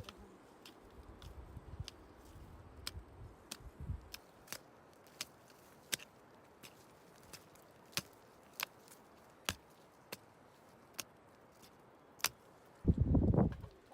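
A string of sharp single taps at an uneven pace, about one or two a second, over a faint background. A loud low rumble starts near the end.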